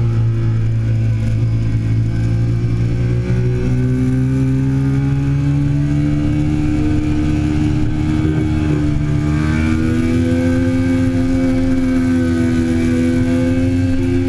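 2008 Triumph Daytona 675's three-cylinder engine running hard at track speed, heard onboard, its note sliding up and down as the rider works the throttle.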